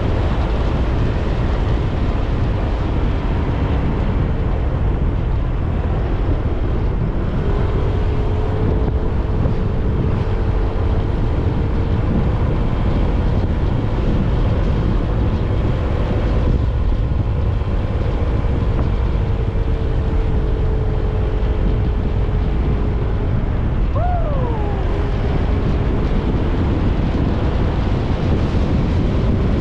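A motor scooter runs steadily at speed under heavy wind buffeting on the microphone, with a steady engine hum. Near the end the engine note briefly sweeps up and falls back.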